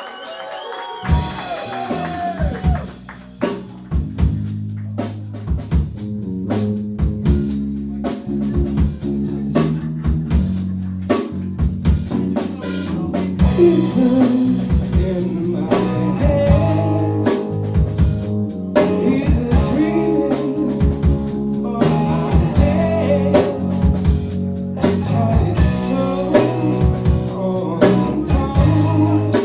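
Live rock band starting a cover song: drums, bass and electric guitar come in about a second in, and a voice sings over them from about halfway on.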